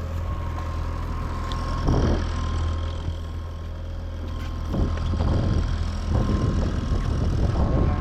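A boat motor running steadily with a thin, even whine, while choppy waves slap against the hull several times, more often toward the end.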